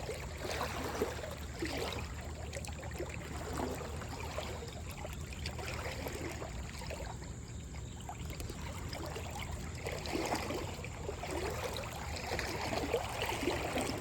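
Flowing river water trickling and lapping steadily around a kayak, with small irregular splashes and drips.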